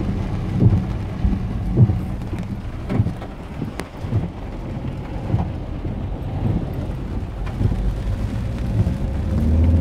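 Rain pattering on a car's roof and windscreen during a thunderstorm, heard from inside the cabin, over the low rumble of the car driving on a wet road, with scattered light knocks.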